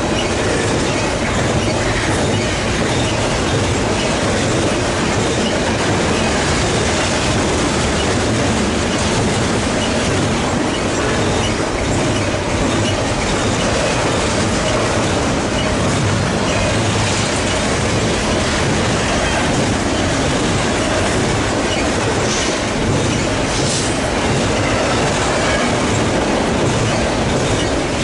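Freight cars of a long BNSF double-stack container train rolling past at steady speed, a continuous loud rumble of wheels on rail with clickety-clack.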